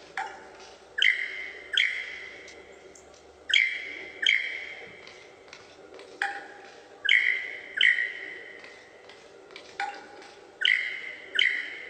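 A bird calling: short, sharp notes that fade quickly, mostly in pairs repeated about every three seconds.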